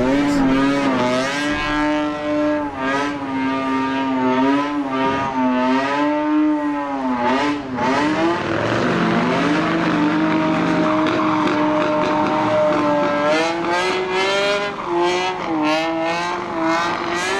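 Engine held at high revs during drifting and burnouts, its pitch wavering up and down as the throttle is worked, with tyre squeal.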